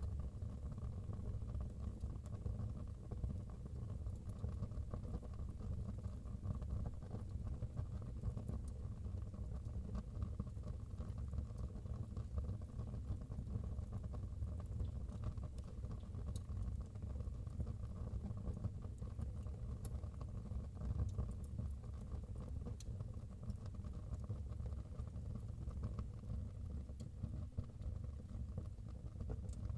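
Wood fire burning in a fireplace: a steady low rumble of the flames with sparse small crackles and pops.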